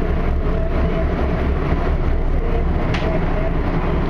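Expo Line light-rail train running along the track, heard from aboard: a steady low rumble of wheels and motors, with a single short click about three seconds in.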